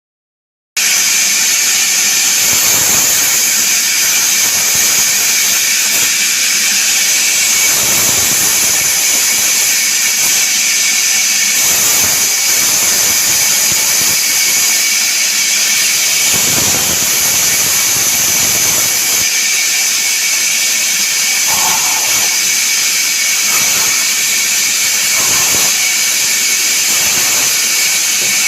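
Woodworking power tool running steadily with a loud high hiss, surging briefly every couple of seconds.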